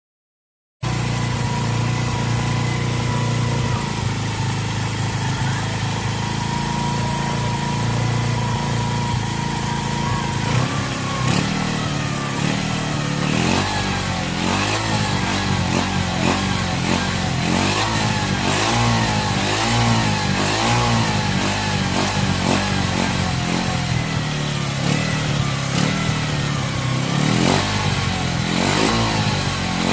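Honda CB100 single-cylinder four-stroke engine, fitted with a Yamaha Mio Sporty cylinder head, running. It idles steadily for about ten seconds, then is revved up and down over and over with throttle blips.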